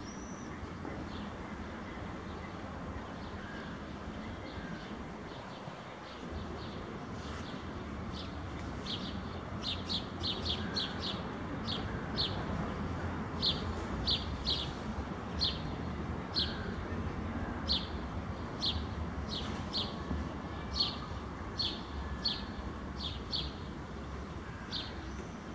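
A small bird chirping repeatedly, short high chirps about one to two a second, starting about a quarter of the way in, over a low steady background rumble.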